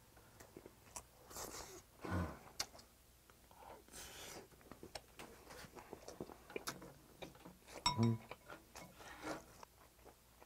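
Close-miked chewing and mouth sounds of a man eating marinated cockles with rice, with light clicks of a spoon and chopsticks against the plates. A short low throat sound about two seconds in and a louder one near eight seconds.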